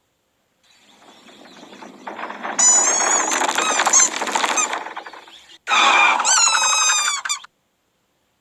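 A cartoon creature's high, squeaky chirping cries in two bursts, the pitch gliding and falling, over a swell of noise that builds up first.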